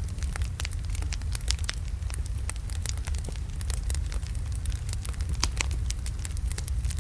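Wood fire of large logs burning, with frequent sharp irregular crackles and pops over a steady low rumble of the flames.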